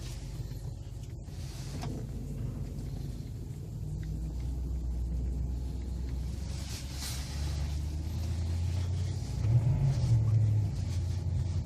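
BMW E65 735i's V8 engine running as the car is driven, a steady low engine note that climbs in pitch about four seconds in and again near the end as it pulls.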